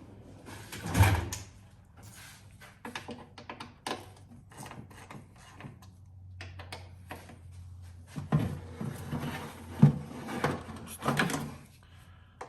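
Hand tools being handled: irregular clicks, knocks and rattles, with one loud knock about a second in and a busier run of clatter near the end, as a Torx T20 bit is sorted out for the sensor screws.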